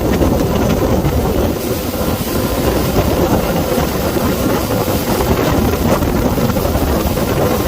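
Motorboat engine running steadily at speed, with heavy wind buffeting the microphone.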